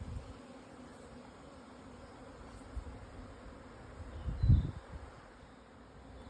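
Swarm of Japanese honeybees in flight, a steady massed buzzing hum. A brief low rumble comes about four and a half seconds in.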